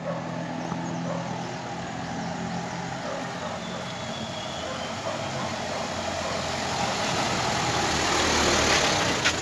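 Mahindra Bolero's engine running as the vehicle drives up and passes close by, getting louder toward the end, with a sharp click just before the end.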